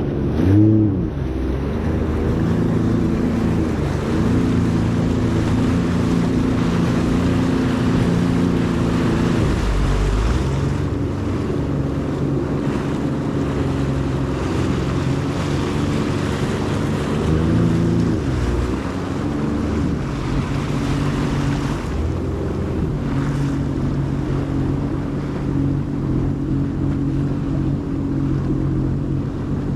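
Jet ski engine running under way, its pitch rising and falling with the throttle: higher for several seconds early on, easing off around ten seconds in and again a little before twenty, then steady and lower. Wind on the microphone and rushing water run underneath.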